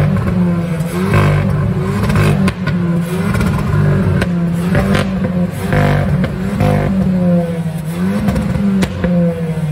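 Hyundai i20N's turbocharged four-cylinder engine revved again and again at a standstill, heard at the exhaust tips, in short blips about once a second with sharp cracks between some of them.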